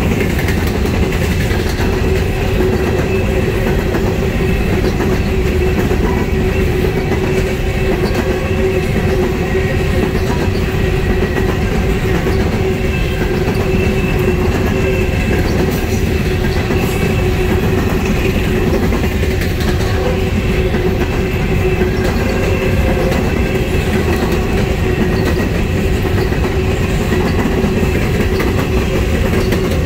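Empty coal hopper cars of a freight train rolling steadily past close by: a continuous rumble and clatter of steel wheels on the rails, with a steady tone running through it.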